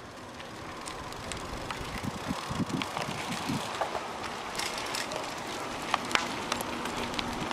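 Bicycle being ridden along: steady wind and road noise with scattered light clicks and rattles.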